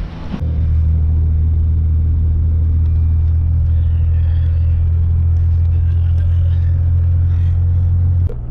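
Steady low drone of a road vehicle driving, heard from inside the cabin, easing off slightly near the end.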